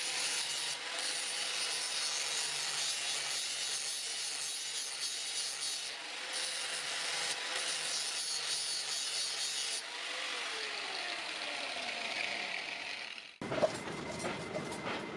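A hand-held electric power tool working iron rod, with a steady hiss and motor hum. About ten seconds in it is switched off and its motor whines down over a few seconds. Near the end the sound changes abruptly to a different clattering, clicking noise.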